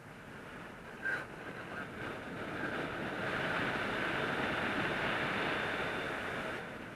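Wind rushing over the microphone of a paraglider in flight. It swells louder about three seconds in and eases off near the end, with one brief sharp tap about a second in.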